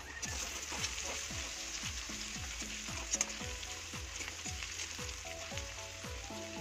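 Sliced onions, garlic and dried red chillies sizzling in hot oil in a metal kadai, stirred with a steel spatula that scrapes against the pan, with sharper scrapes about a second in and again around three seconds in.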